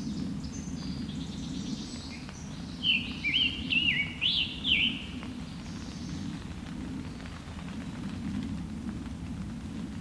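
Scarlet tanager singing a hurried phrase of about six burry, rising-and-falling notes about three seconds in, with fainter high songs of other birds and a steady low background rumble.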